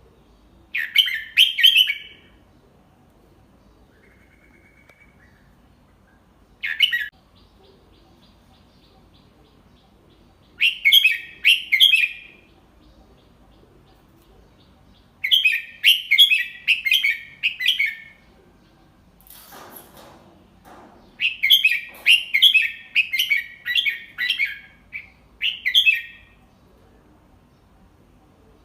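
Red-whiskered bulbul singing: about five short, quick warbling phrases with pauses of a few seconds between them. It is a teacher bird's slow, clear song for young bulbuls to copy.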